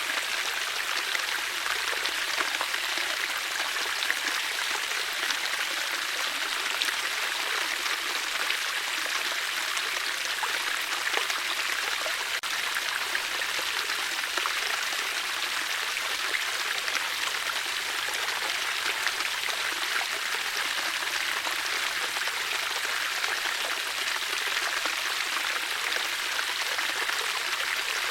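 Water flowing steadily, a continuous even rush and trickle with no change in level.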